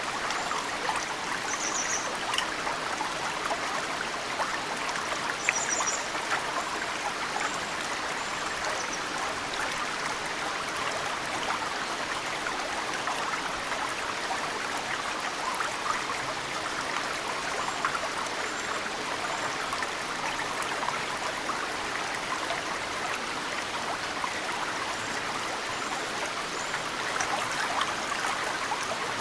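Mountain stream flowing steadily, with snowmelt drips falling into the water. High, thin bird chirps come a few times, clearest about 2 seconds in and around 5 to 6 seconds, and faintly later on.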